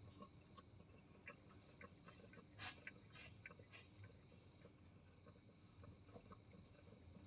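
Near silence: faint room tone with a steady high hiss and a few soft scattered clicks, a small cluster of them about two and a half seconds in.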